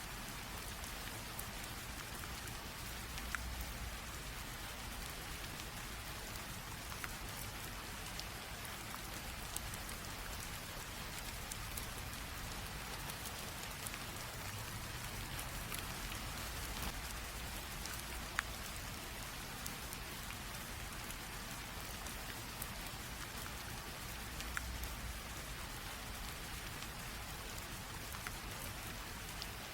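Light rain drizzling: a steady soft hiss of rain with scattered individual drops tapping sharply now and then.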